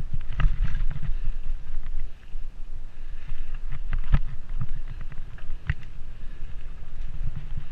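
Mountain bike riding over a dirt trail: a steady low rumble of wind and tyres, broken by sharp rattles and knocks as the bike hits bumps, the loudest about four seconds in.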